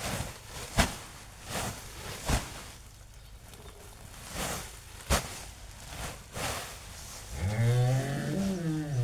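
A series of irregular knocks and swishes, then a cow mooing: one long moo that begins a little before the end, rising slightly at first and then holding steady.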